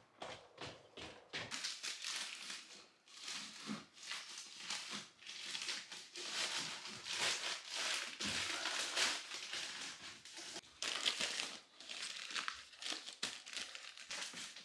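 Irregular rustling and crinkling that comes and goes in swells, with no steady machine tone.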